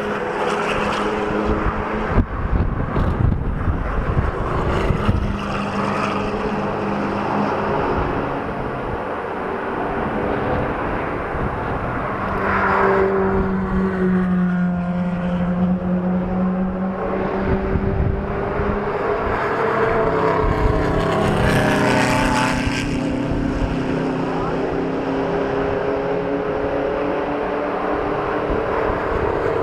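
Supercar engines running loud, with the engine note climbing and falling twice as revs rise and drop. Sharp cracks from the exhaust come in the first few seconds.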